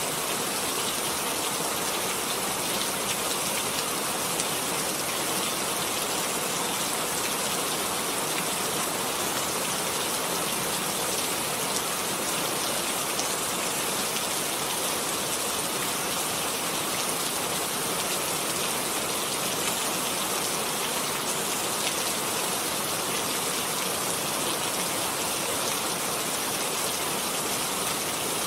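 Steady rain falling, a dense even patter without letting up.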